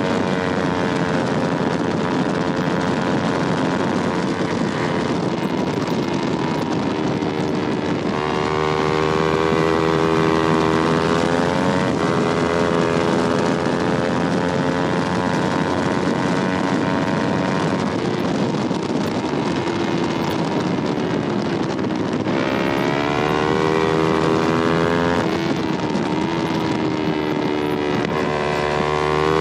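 Yamaha R3's 321 cc parallel-twin engine at racing revs, its pitch climbing several times as it pulls hard and falling back in between, with wind noise over it.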